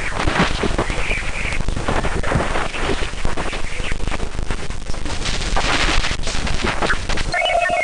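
A 'planet sound' recording: dense, loud crackling static full of rapid clicks and pops over a hiss. Near the end a steady tone with a high beeping pattern above it comes in.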